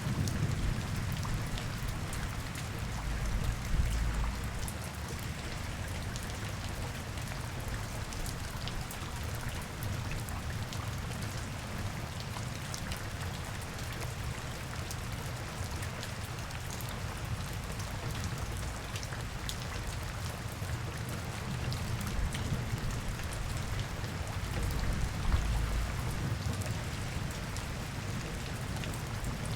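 Steady rain falling and pattering on hard surfaces, with many single drops ticking sharply. A low rumble swells briefly twice, a few seconds in and again near the end.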